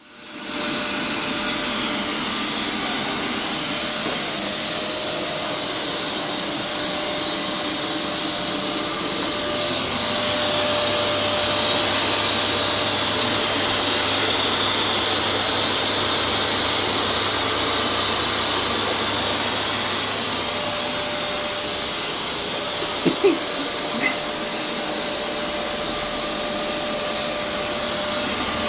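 Vacuum cleaner running steadily, used to groom a cat, with a couple of short sharp noises about four-fifths of the way in.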